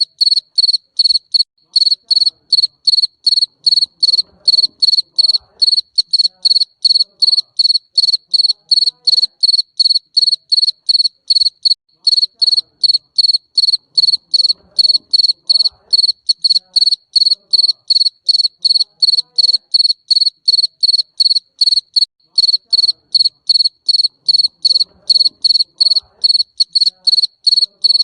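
A garden field cricket chirping in a steady, even rhythm of about three high-pitched chirps a second.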